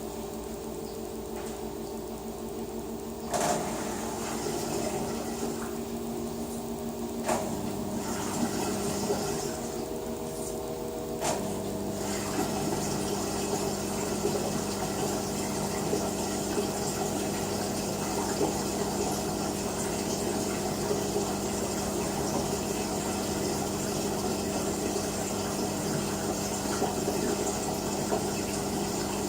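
LG WT-R852 direct-drive washing machine running with water sloshing and a steady motor hum. The sound steps up and gets busier about 3, 7 and 11 seconds in, then runs on steadily.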